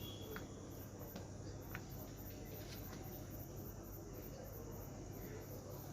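Faint background: a steady low hum under a faint, high chirping that repeats evenly about three times a second, with a few soft clicks.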